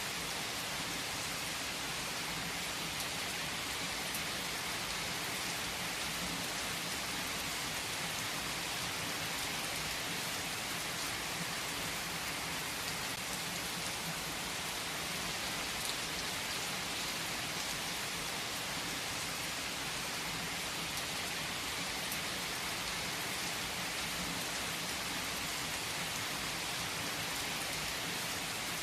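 Steady, even rain falling on a surface: a dense, unbroken patter with no changes or separate louder events.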